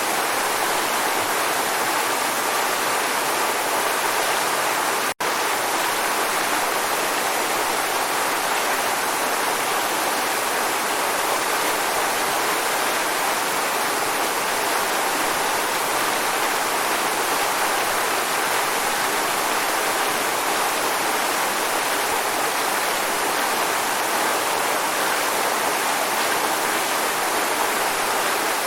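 Waterfall: a steady, dense rush of falling water with no change in level, broken only by a split-second dropout about five seconds in.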